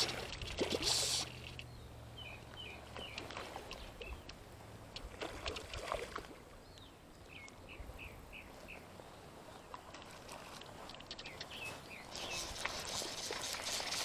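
Outdoor riverside ambience: a small bird calling in several quick runs of short chirps. A loud rustle of handling close to the microphone comes in the first second, a low steady hum fades out over the first few seconds, and handling noise rises again near the end.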